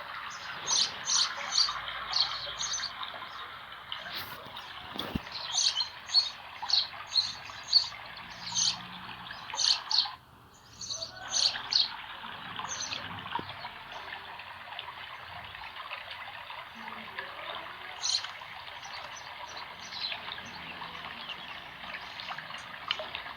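Running spring water flowing steadily, with small birds chirping in many short, quick calls over it. The chirps are densest in the first half and thin out later, and the water sound drops away for under a second near the middle.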